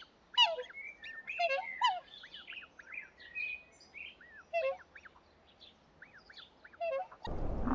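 Birds calling: many quick, arched chirps with several louder calls that sweep downward in pitch, repeated every second or so. Near the end a loud, even rushing noise sets in.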